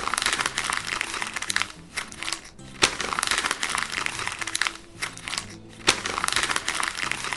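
Paper being crumpled by hand: bursts of crackling and crinkling a second or two long, broken by short pauses, over soft background music.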